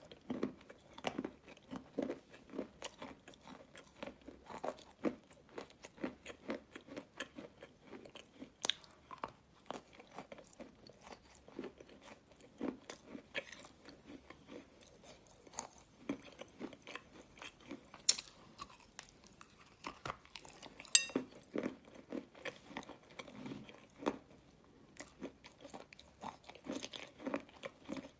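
Close-miked chewing and biting of a soft, sticky coated food: a steady run of wet mouth clicks, lip smacks and squelches, with a couple of sharper bites or crunches in the second half.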